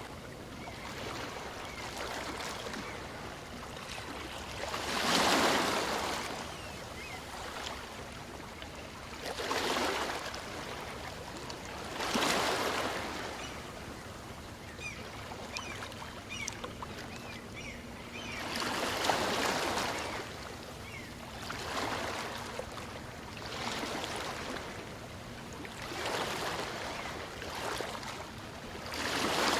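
Calm sea: small waves breaking and washing up on a beach, a swell of surf every few seconds over a steady wash of water.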